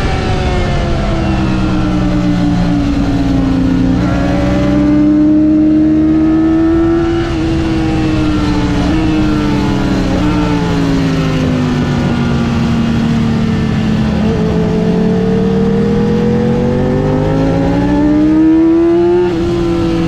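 Yamaha R6's inline-four engine at track speed, its pitch falling and rising repeatedly as the rider brakes and accelerates. The pitch drops sharply at gear changes about seven seconds in and again near the end.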